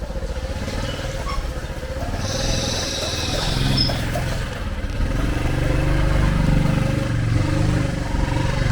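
Motorcycle engines running in street traffic, with a hiss for about a second and a half a couple of seconds in.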